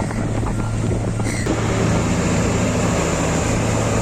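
An engine running steadily with a constant hum, with wind noise on the microphone.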